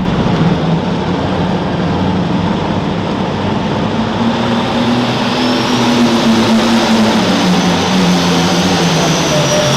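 Turbocharged diesel engine of a super stock pulling tractor running hard under load, its pitch climbing slightly midway and sagging near the end, with a high whistle over it in the second half.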